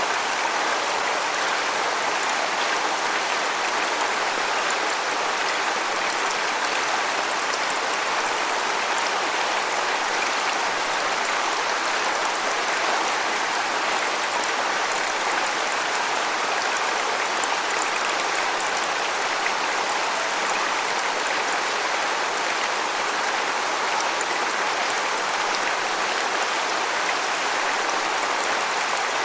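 Waterfall: water falling and splashing in a steady, even rush with a fine crackle of spray.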